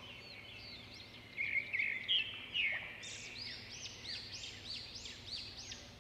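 Bird chirping: a run of short high notes, each rising and falling, repeated about three times a second in the second half.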